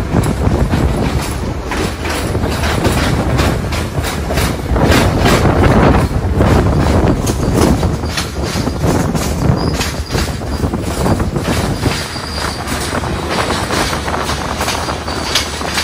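Yal Devi Express train running on the rails, heard from aboard: a steady rush of noise with wheels clattering over the rail joints. A faint high wheel squeal comes in after about ten seconds.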